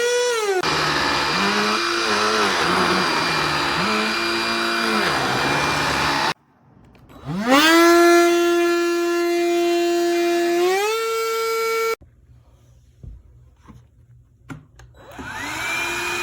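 Cordless handheld vacuum motor running with a high whine. For the first several seconds it wavers over a rushing hiss of air and debris. It then cuts out, spins up again with a rising whine, runs steadily, rises in pitch once more and stops abruptly. After a few faint clicks it is switched on once more near the end.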